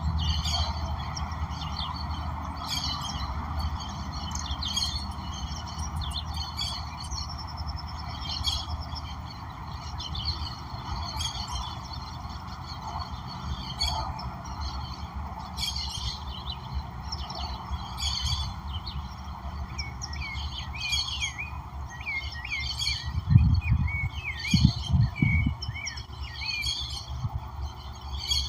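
Several wild birds calling, short sharp calls repeating every second or two, with a flurry of quick chirps in the last third. Under them runs a steady hiss and low rumble, and a few low thumps about three-quarters in are the loudest sounds.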